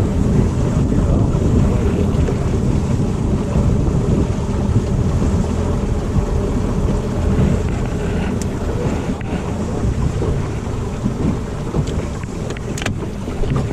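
Wind buffeting the microphone on a running boat: a steady low rumble, with a couple of sharp clicks near the end.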